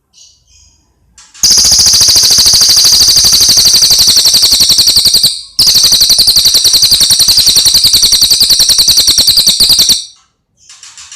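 A songbird's loud, rapid, high trill: a dry rattle of fast, even notes in two long runs of about four seconds each, split by a brief break. Shorter, fainter chirps come just before and near the end.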